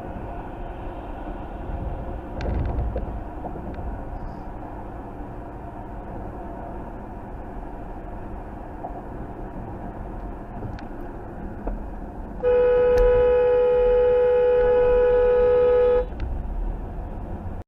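Steady vehicle road and engine noise, then a horn sounds one long steady blast of about three and a half seconds, the loudest sound here, before cutting off.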